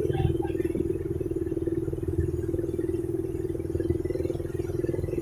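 Motorcycle engine running steadily at an even speed, with a fast, even firing rhythm.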